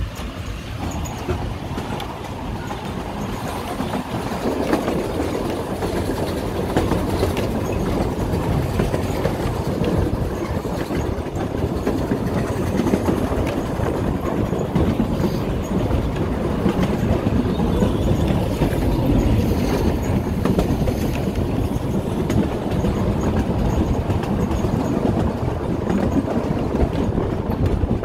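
Puffing Billy narrow-gauge steam train running along the track, heard from aboard a carriage: wheels and carriage running on the rails with a dense, steady rattle, growing louder over the first several seconds and then holding steady.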